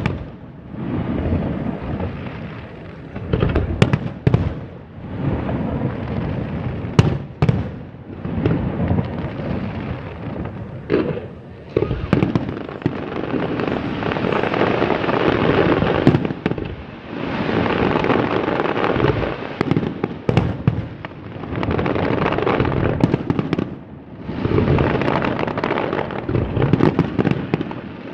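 Fireworks display: several sharp bangs of bursting shells in the first half, then long swells of crackling that rise and fade every few seconds.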